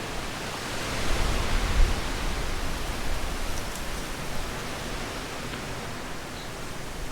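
Strong wind rushing and gusting, with a low rumble of wind buffeting the microphone; a gust swells about a second in and then eases to a steady rush.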